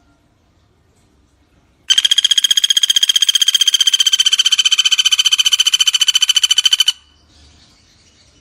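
Pelatuk bawang woodpecker giving one long, very fast rattling trill. It starts about two seconds in, holds a steady high pitch for about five seconds, and cuts off sharply. Faint chirps sound before and after it.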